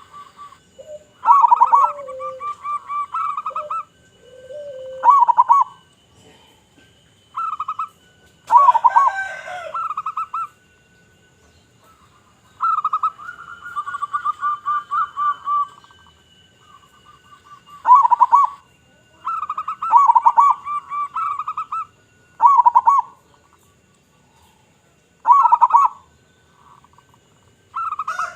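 Zebra doves (perkutut) cooing over and over: each phrase opens with a strong note and runs into a fast rolling trill, with short pauses between phrases. A rooster crows once about a third of the way in.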